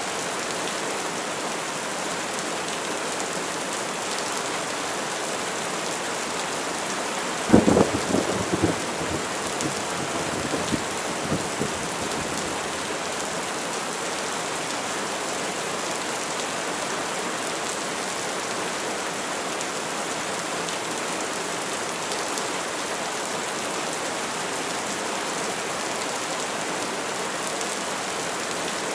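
Steady heavy rain falling, with a sharp crack of thunder about seven seconds in that rolls and rumbles off over the next few seconds.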